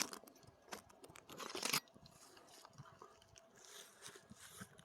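Faint, irregular rustling and crackling handling noises, with a louder scraping rustle about one and a half seconds in.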